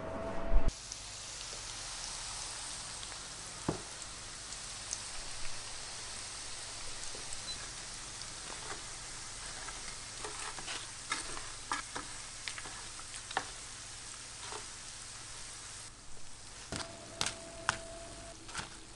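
Roast potatoes sizzling and crackling in hot fat in a roasting tray, with scattered pops, as they are turned. A knock comes about half a second in, and a few sharp clicks near the end.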